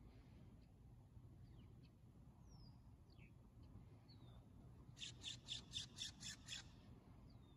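Wild birds calling in quiet outdoor air: faint short falling chirps now and then, and about five seconds in a quick run of about seven calls lasting about a second and a half.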